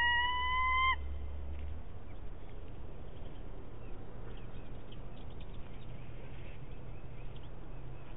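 A single long bird call, a steady note held about a second that rises slightly at its start, followed by a few faint short chirps.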